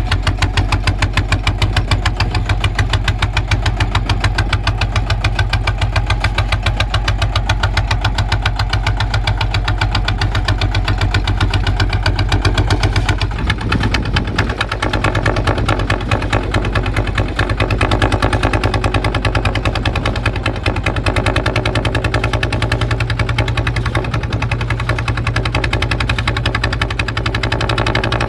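Kubota ZT155 tractor's single-cylinder diesel engine running with a rapid, steady thumping beat. The engine note changes about halfway through and then runs on steadily.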